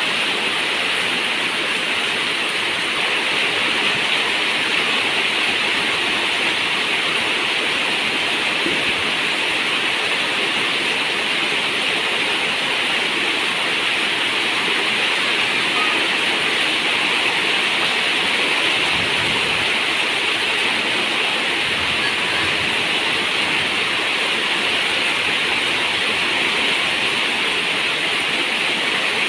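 Steady rain falling on a zinc roof, an even, unbroken rush of water.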